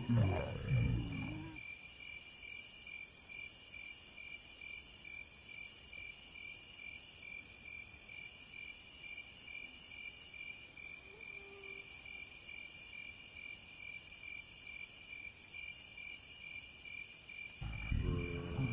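Night cricket chorus: a steady high trill with regular pulsing chirps over it. A loud low sound in the first second and a half, and a low growl starting near the end.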